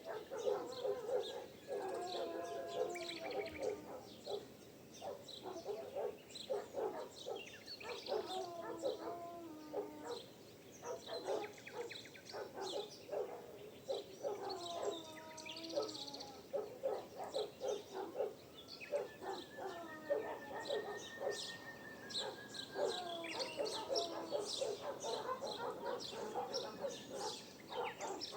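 Dawn chorus of many birds chirping and singing. Longer, lower calls come in every few seconds alongside them.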